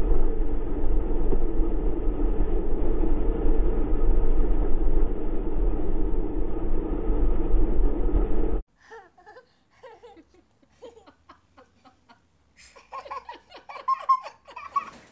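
Steady wind and road noise of a moving car with a window open, buffeting the microphone, cutting off suddenly after about eight and a half seconds. Then faint scattered taps and scrapes, and a person laughing near the end.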